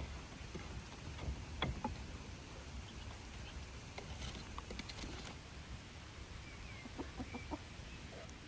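Outdoor rural ambience: a steady low rumble with scattered small clicks and knocks, and a few faint bird chirps.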